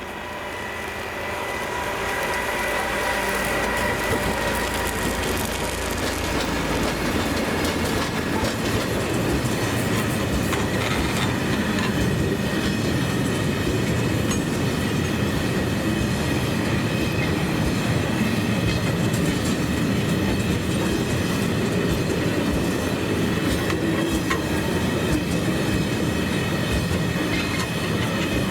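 A train rolling past, growing louder over the first few seconds and then a steady noise of wheels on the rails with repeated clicks from rail joints.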